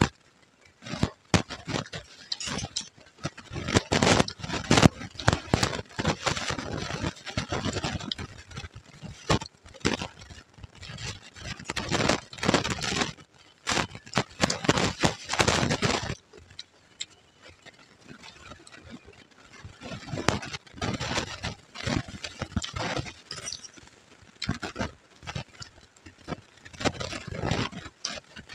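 Close-up chewing of puffed rice with ghugni and raw salad: crisp crunching in several bouts a few seconds long, with quieter gaps between mouthfuls. A steel spoon scrapes against the steel plate as she scoops.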